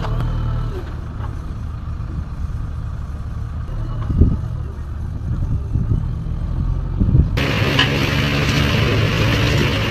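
A heavy diesel engine running steadily, with a single knock about four seconds in. About seven seconds in the sound turns abruptly louder and harsher.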